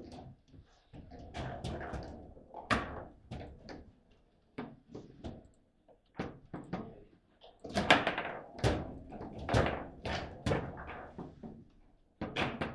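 Table football in play: a rapid, irregular run of sharp knocks and thuds as the ball is struck by the players on the rods and hits the table walls. The hits come thickest and loudest about eight to eleven seconds in.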